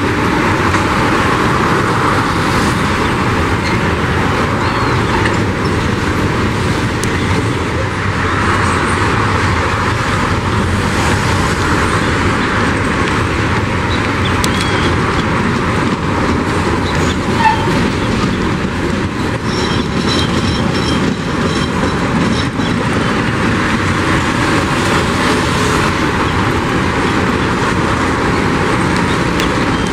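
Freight train wagons rolling past with a steady noise of wheels on rails. A faint high tone joins in for a few seconds past the middle.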